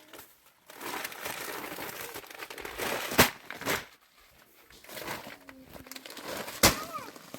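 Crinkling and rustling of something being handled, with two sharp knocks, one about three seconds in and one near the end.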